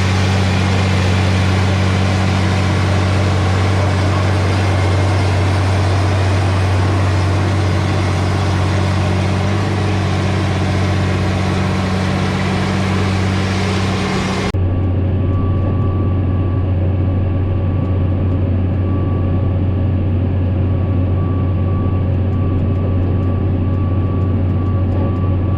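Tractor engine running steadily with a deep, constant hum. About halfway through the sound changes abruptly: the broad hiss drops away, leaving the low hum and a faint steady whine.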